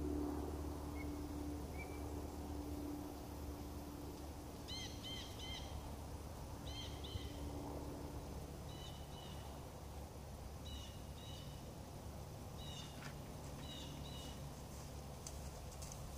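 A bird calling in short chirps, grouped in twos and threes and repeated about every two seconds, over faint outdoor background noise with a low steady hum.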